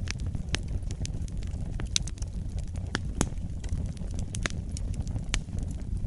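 Wood fire burning in a fireplace, a steady low rumble of the flames with irregular sharp crackles and pops, the loudest about two and three seconds in.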